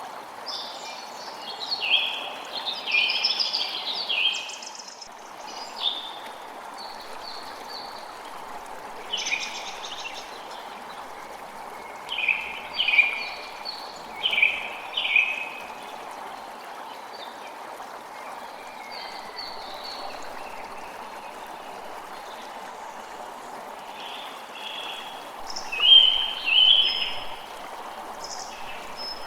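Creek water running steadily, with small birds singing over it in short phrases of quick chirping notes that come and go several times.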